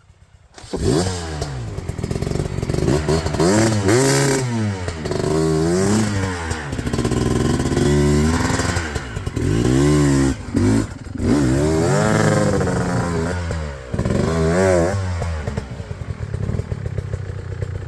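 Dirt bike engine revving hard, its pitch rising and falling over and over as the throttle is worked, with a few brief dips where the revs drop off.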